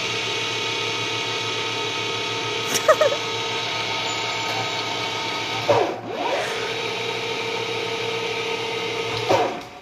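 Machine-tool motor and spindle running at a steady speed with a constant hum. Short squeals come about 3 and 6 seconds in, and the machine stops just before the end.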